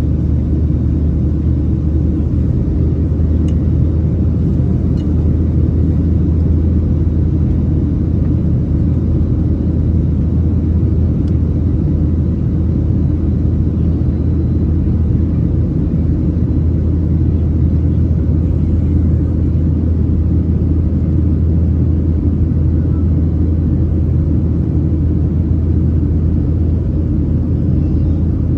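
Steady low rumble inside the passenger cabin of a Boeing 737-700 in its departure climb: the CFM56-7B engines and the airflow over the fuselage, droning evenly without change.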